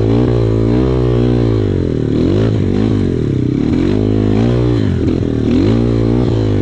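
Dirt-bike engines: one revved up and down again and again in short swells, over a second engine running at a steadier pitch.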